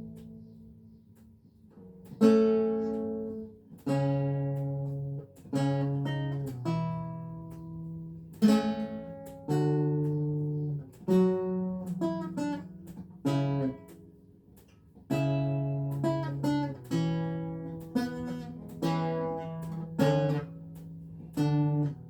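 Renaissance lute music: slow plucked chords and single notes, each ringing and dying away. A chord fades out over the first couple of seconds before the playing picks up again.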